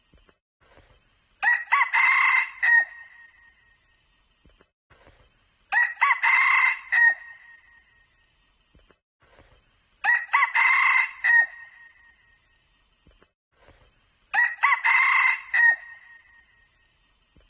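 Red junglefowl cock crowing four times, evenly spaced about four seconds apart, each crow short and clipped.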